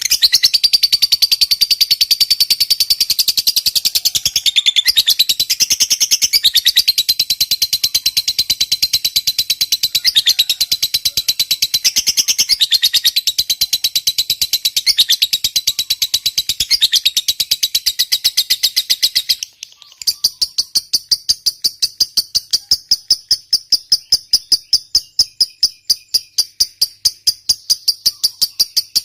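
Lovebird giving a long, rapid, high-pitched chattering trill ("ngekek panjang"). About twenty seconds in it breaks off, and a slower, evenly pulsed high chirping follows, about four or five pulses a second.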